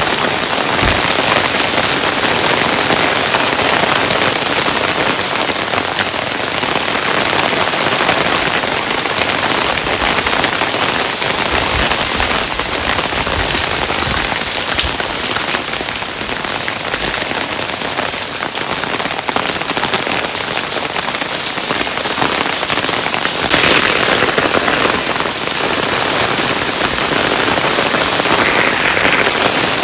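Hailstones falling steadily, a dense, continuous patter of many small impacts with a few heavier low thuds.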